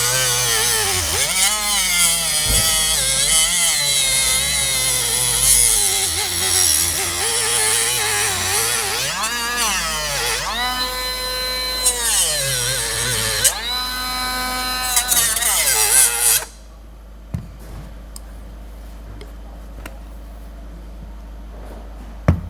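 Angle grinder cutting into a Tesla Model 3 front control arm: the motor whine drops and rises again and again as the disc bites under load, over a harsh hiss of grinding metal. It stops suddenly about sixteen seconds in.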